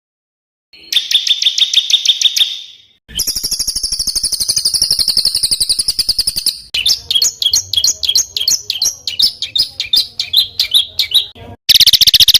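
Recorded songs of small songbirds spliced back to back with abrupt cuts, all fast, rough rapid-fire notes. A fast trill comes about a second in, then a long, very high rapid trill from about three seconds. A run of varied chirps follows, then another fast trill near the end.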